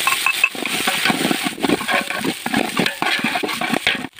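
Crushed ginger sizzling and crackling in hot ghee in a large aluminium pot: a dense run of irregular pops and spatters, cut off sharply just before the end.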